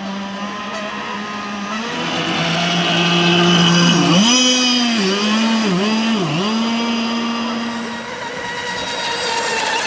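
Radio-controlled model boat's motor running at a steady pitch, growing louder to a peak a few seconds in. Its pitch then dips sharply four times in quick succession before the sound fades.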